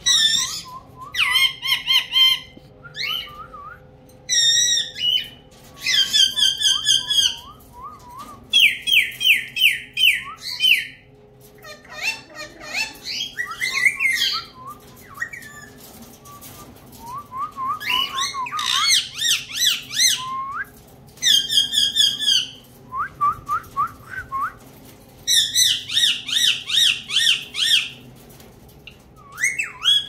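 Caged pet birds calling: bouts of rapid, repeated whistled chirps, each a second or two long, coming again and again with short pauses between.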